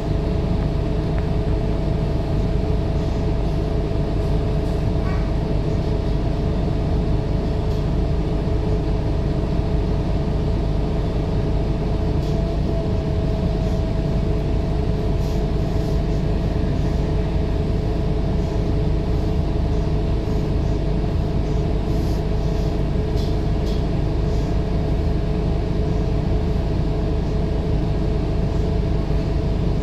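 Scania K230UB city bus's diesel engine running steadily, with a constant drone and a steady whine over it.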